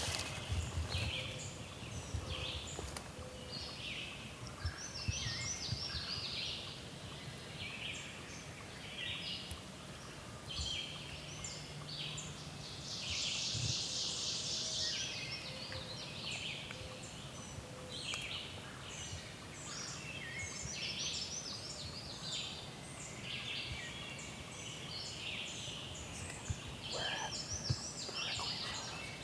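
Wild turkey gobbling among a dawn chorus of many songbirds singing, with short chirps and warbles overlapping throughout.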